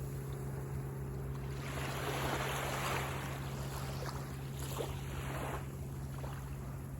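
Small sea waves breaking and washing up a beach: the surf swells twice, with crackling foam, over a steady low hum.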